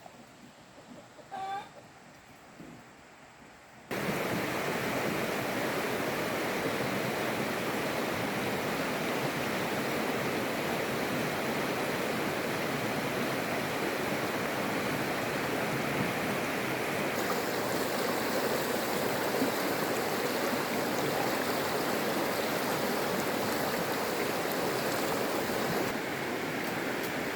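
Steady rushing of flowing water, starting abruptly about four seconds in after a short bird call.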